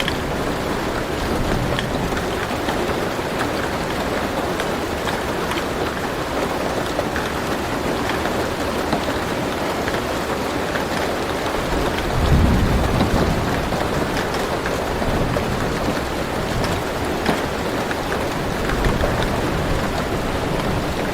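Steady rain drumming on a car roof, with scattered single drops ticking. About twelve seconds in, a low rumble of thunder swells for a second or two and fades back into the rain.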